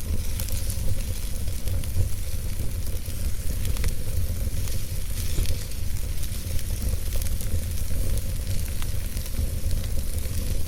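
Wood fire of burning logs in a fireplace, crackling steadily with frequent small pops and snaps over a low rumble.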